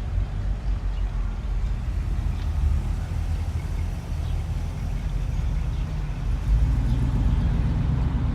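Car engines running as cars cruise along the street, a steady low rumble that gets louder near the end as one comes closer.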